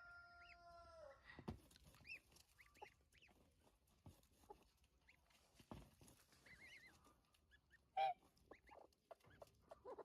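Faint, sparse calls of a mother hen and goslings: a drawn-out call in the first second, a few soft high peeps, and one short louder call about eight seconds in.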